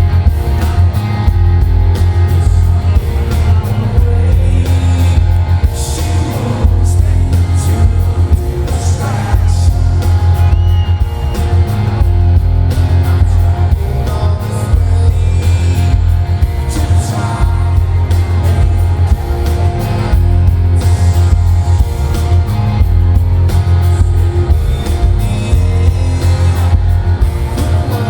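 A live rock band playing a song in concert, with guitars over a heavy, booming bass that dominates the sound.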